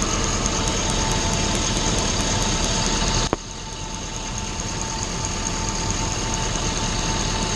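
Engine idling steadily with a faint, rapid, even ticking, its coil packs and plug wires wet from a water spray; the engine has a random misfire (code P0300), and arcing has been seen at cylinder 6. The sound drops suddenly a little over three seconds in, then slowly comes back up.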